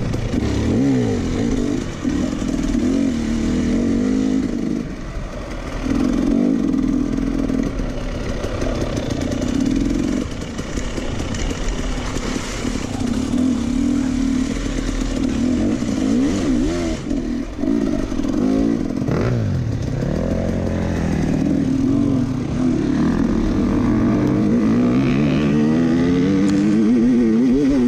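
Racing tractor engine running hard, its pitch dipping and climbing back several times, with revs sweeping upward repeatedly in the last few seconds.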